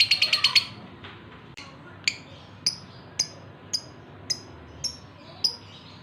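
Male lovebird in breeding condition calling to a female: a burst of rapid, shrill chattering that stops under a second in, then a string of about seven sharp single chirps, roughly two a second.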